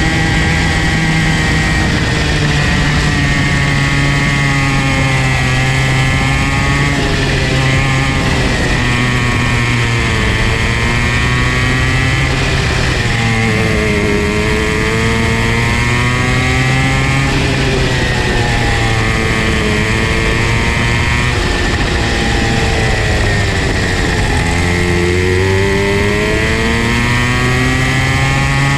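Go-kart's Comer C50 two-stroke engine running hard. Its pitch drops and climbs back up every four to five seconds as the kart slows for corners and accelerates again on the track.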